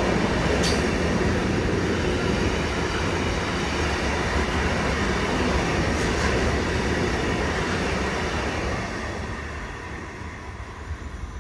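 A train running through a station, a loud rolling rumble with a couple of sharp clicks, fading away over the last few seconds as it moves off.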